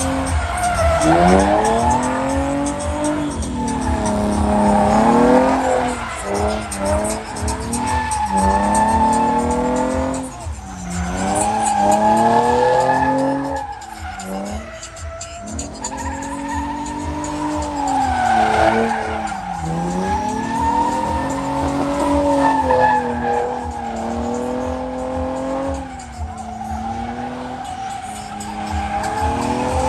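Car engine revving up and down over and over while the tyres squeal as the car slides.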